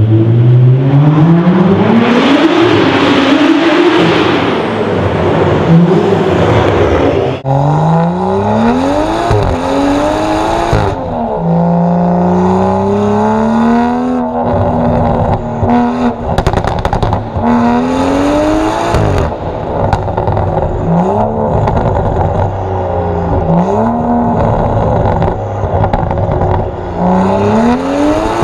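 Straight-piped, tuned BMW M135i's turbocharged straight-six revving hard under acceleration. The pitch climbs and then drops back again and again as it runs up through the gears, and the sound changes abruptly about seven seconds in.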